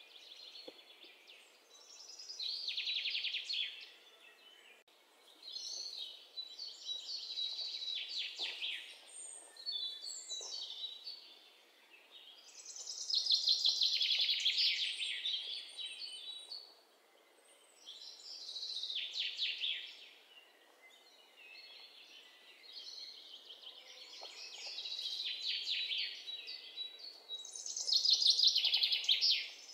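Birdsong: a bird repeating short, rapid trilled phrases every few seconds.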